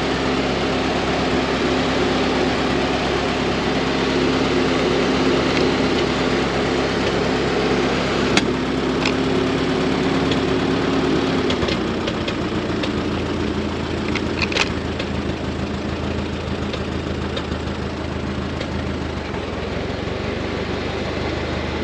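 Old tractor engine, brought back to life after years of sitting, running steadily at idle; about halfway through the engine speed drops and settles lower. A few sharp clicks sound over it.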